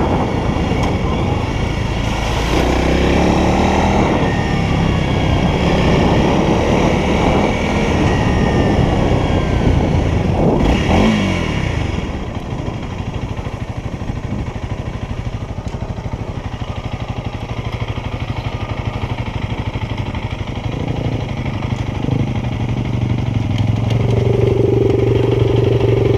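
Honda CRF300L's single-cylinder four-stroke engine running as the motorcycle is ridden, the revs changing with the throttle. It eases to a quieter, steadier note about halfway through and picks up again near the end.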